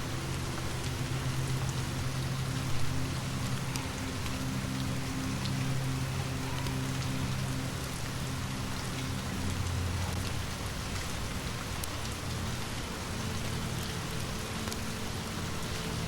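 Steady rain falling on a surface, with scattered faint clicks and a low, sustained hum that shifts in pitch about halfway through. One brief louder knock sounds about three seconds in.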